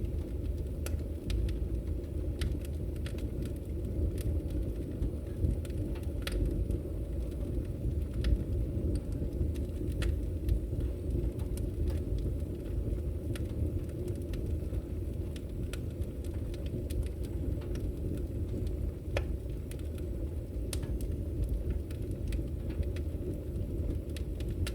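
Log fire burning in a fireplace: a steady low rumble of flames with frequent, irregular crackles and pops.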